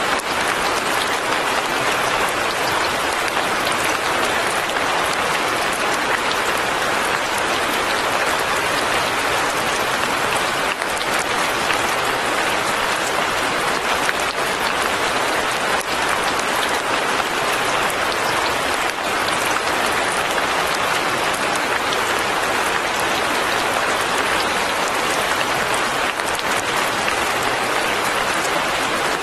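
Steady rain falling, an even dense patter of drops that does not change.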